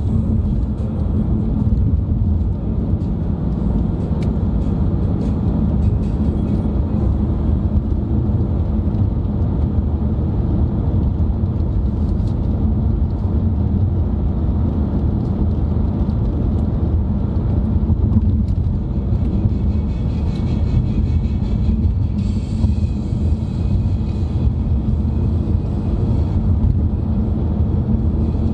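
Steady low road and engine noise heard from inside the cabin of a moving car. A faint higher hiss joins about twenty seconds in.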